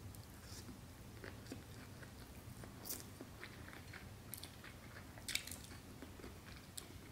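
Faint chewing of a mouthful of sushi, with a few soft clicks and mouth sounds scattered through.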